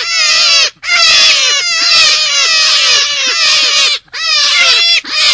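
High-pitched animal calls from a lure recording: many squeaky notes, each sliding quickly downward, crowded over one another in fast runs. The runs break off briefly about a second in and again near four seconds.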